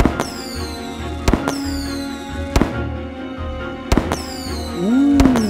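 Fireworks sound effect: five sharp bangs about every second and a quarter, each followed by a high, falling fizz. A wavering tone joins near the end.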